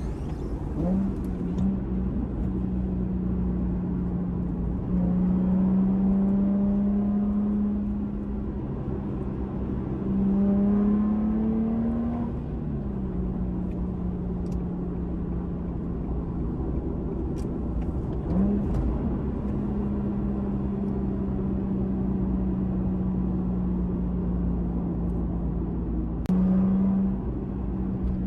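Nissan Fairlady Z Z34's V6 idling steadily through an HKS aftermarket exhaust. It is given several light throttle blips, among them a slow rise in revs about ten seconds in and a brief step up near the end.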